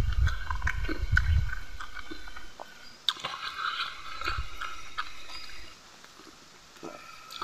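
Close-up eating sounds: a man chewing a mouthful of rice and fish curry, with small wet mouth clicks and smacks and his fingers working the food on a banana leaf. It goes quieter about six seconds in.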